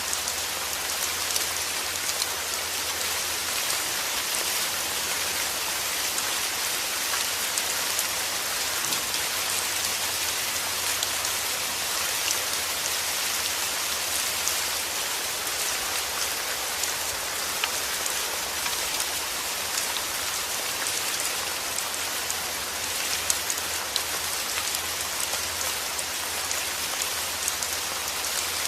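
Steady heavy rain falling, a continuous hiss with scattered sharp drop ticks on a surface.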